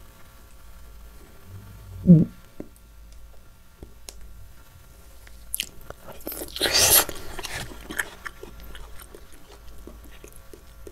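Close-miked eating of gold kiwi: a short low thump about two seconds in, a loud wet bite into the soft fruit a little past halfway, then soft chewing with small wet clicks.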